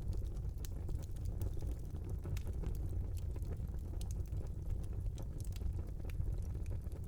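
Wood fire burning in a small fireplace: a steady low rumble of flames with frequent small sharp crackles and pops.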